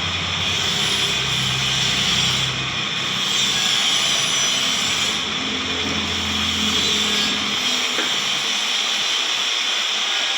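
Steady loud hiss of workshop machinery, with a low hum underneath that shifts in pitch and dies away about eight seconds in.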